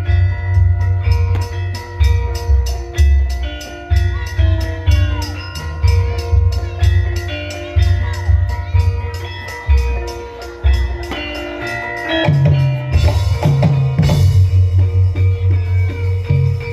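Javanese gamelan ensemble playing lengger dance music: bronze metallophones and gongs sound a stepping melody over a dense fast pulse, with deep hand-drum (kendang) beats. About twelve seconds in the drumming grows heavier and busier.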